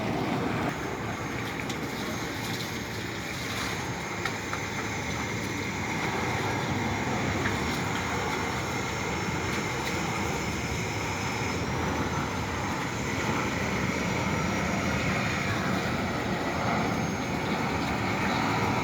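Steady engine rumble with a faint high whine drifting slightly in pitch above it.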